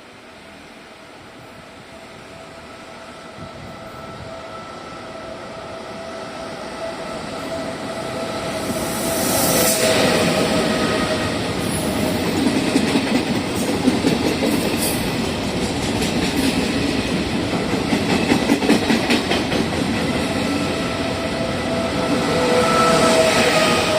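A train approaching and passing close by. It grows steadily louder for about ten seconds, then goes on loud with the repeated clicking of wheels over rail joints.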